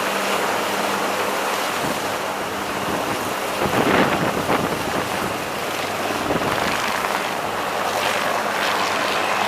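Helicopter running: a steady rushing noise with a low hum underneath, swelling briefly about four seconds in.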